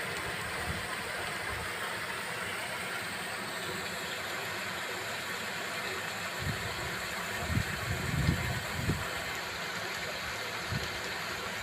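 Steady rain falling, an even hiss, with a few short low thumps about two-thirds of the way through.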